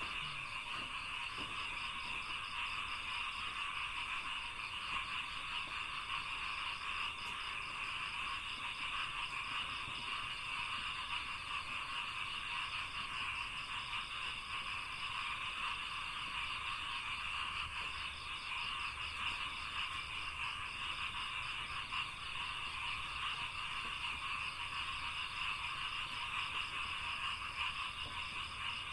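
A dense, unbroken chorus of many frogs calling at once, a steady wall of high calls with no pauses.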